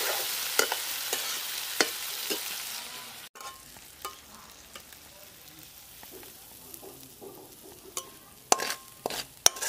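Thick lote fish masala sizzling in a kadai under a metal spatula, the sizzle fading over the first three seconds. After an abrupt break, quieter scrapes follow as the spatula scoops the curry out, and a few sharp taps come near the end.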